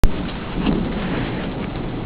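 Steady rain falling with a low rumble of thunder during a thunderstorm, swelling briefly about half a second in. A sharp click sounds at the very start.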